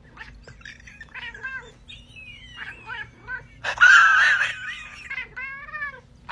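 Domestic cat vocalizing in a long run of short meows that rise and fall in pitch, with one loud, harsh yowl about four seconds in.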